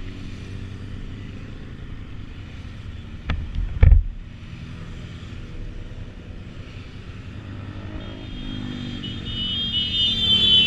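Motorcycle engine running steadily on the move, with two sharp low thumps about a third of the way in; near the end it grows louder and a high steady tone comes in.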